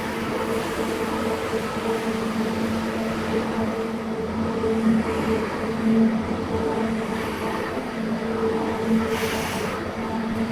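Carpet-cleaning machine's motor running with a steady hum and rushing noise, with a brief hiss about nine seconds in.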